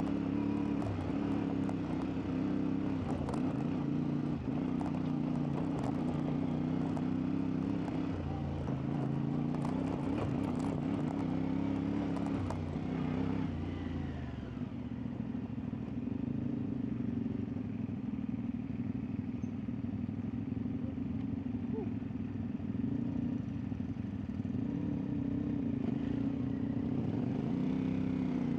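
CFMoto 450MT motorcycle's parallel-twin engine running under changing throttle, its pitch rising and falling, with knocks and rattles over the first half. From about halfway it runs at a steadier pitch.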